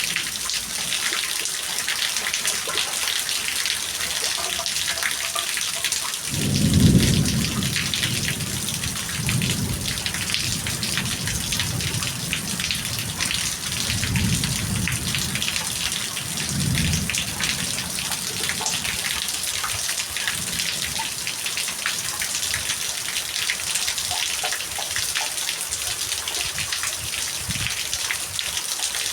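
Steady heavy rain, a dense hiss of many fine drop ticks. Low thunder rumbles under it, the loudest swelling about six seconds in and a few softer rolls following over the next ten seconds.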